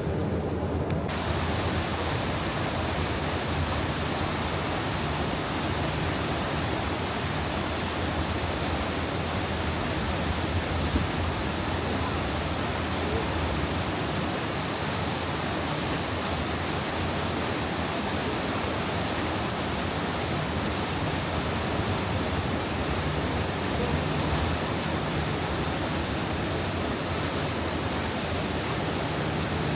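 Steady rushing of water: a full, even hiss that holds at one level without breaks.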